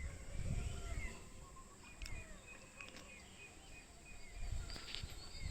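Birds calling outdoors: a run of short, repeated chirps over a low rumble.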